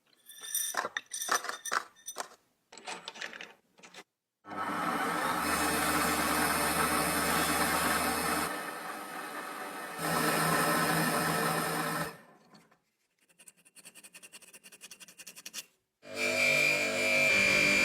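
Restoration tool work: a run of short rubbing strokes, then a small power tool running steadily in two spells, then rapid ticking. Music starts near the end.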